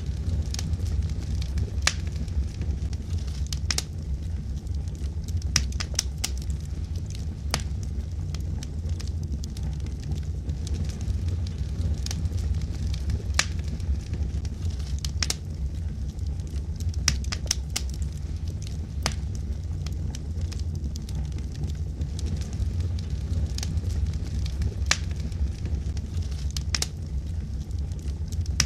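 Wood logs burning in a fireplace, with a steady low rumble of the flames and sharp crackles and pops at irregular intervals, several a few seconds apart.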